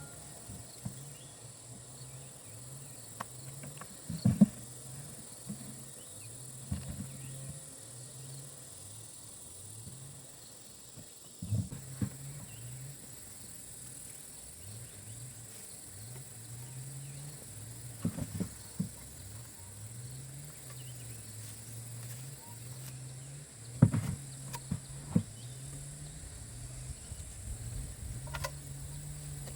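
Steady high-pitched chorus of crickets and other insects, with a low hum that steps up and down in pitch. A few sharp knocks come at scattered moments.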